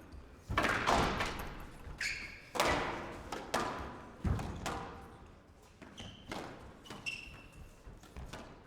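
Squash rally: the ball cracking off rackets and the walls in sharp impacts about once a second, each with an echoing tail, plus short squeaks of shoes on the court floor.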